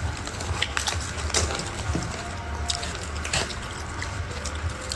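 Close-miked chewing of food: scattered wet mouth clicks and crackles, over a low steady hum.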